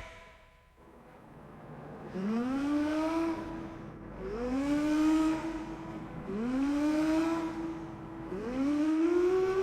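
A vehicle engine revving up four times in a row, beginning about two seconds in. Each climb in pitch levels off, then drops back and climbs again.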